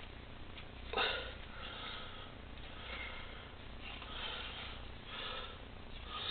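Faint handling noises, a run of soft rustles and breathy scuffs about a second apart, the strongest about a second in.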